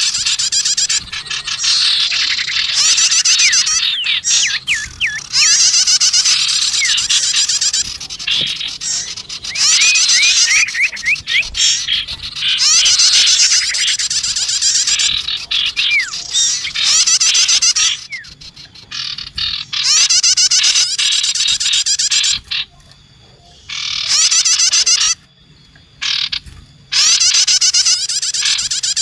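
Recorded calls of small songbirds played as a bird-trapping lure, sirtu mixed with bar-winged prinia (prenjak tamu): busy, very high rapid trills and quick rising chirps in bursts of a second or two with short gaps between.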